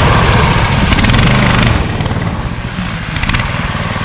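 Rybak motorized snow dog's 20-horsepower engine running hard under throttle as it pulls its 500 mm track over crusted snow, easing off somewhat about two seconds in.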